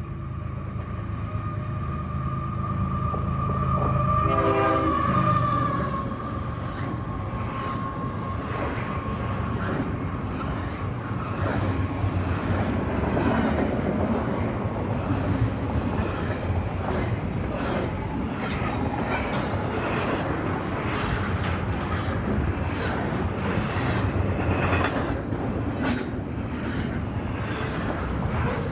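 Canadian Pacific diesel freight train passing close by: the locomotives' low engine drone and a horn note in the first few seconds, then the rolling cars rattling, with repeated sharp clicks of wheels over the rail joints.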